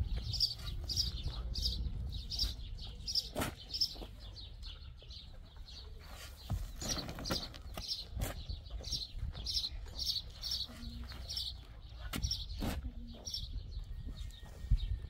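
A bird chirping over and over, short high chirps about three a second, over a low rumble, with a few sharp knocks.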